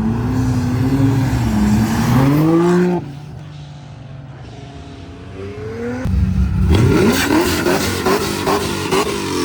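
Car engine revving hard, its pitch rising and falling, that cuts off abruptly about three seconds in. After a quieter stretch, an engine accelerates loudly near the end with several quick upward sweeps in pitch.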